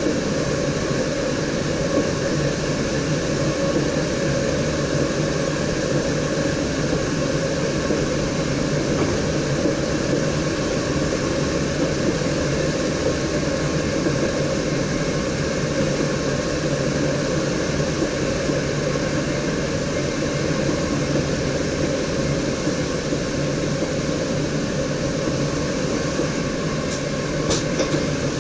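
Steady running noise in the driver's cab of an NS DDZ double-deck electric train, a low rumble with a constant hum. There are two brief high ticks near the end.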